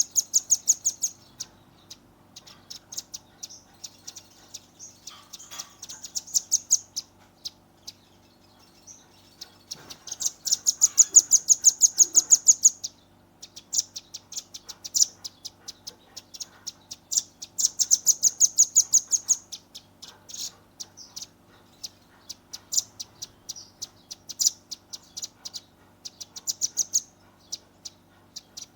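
Young velvet-fronted nuthatch (red-billed 'rambatan paruh merah') calling in fast, high trills of sharp repeated notes: the rapid 'tembakan' (shooting) series, in bursts of a few seconds with short pauses. The longest and loudest bursts come about ten and seventeen seconds in.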